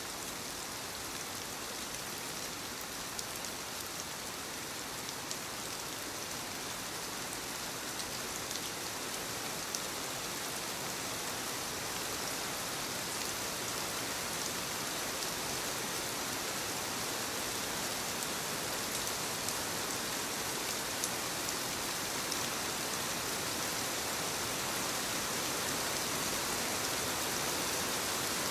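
Steady soft rain falling on leaves: a constant hiss scattered with small drop ticks, growing slightly louder over the stretch.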